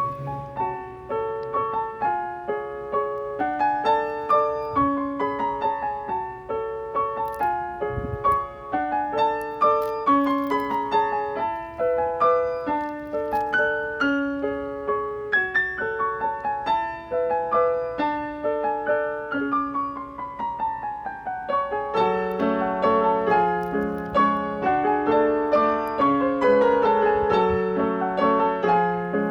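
Instrumental piano music: a bright melody of quick, ringing notes, with lower accompanying notes joining about 22 seconds in.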